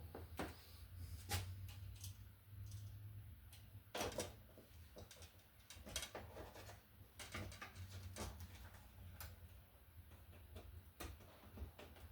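Scattered faint clicks and taps of hand tools and a copper ground wire being bent and worked onto a wall receptacle's terminal, over a low steady hum.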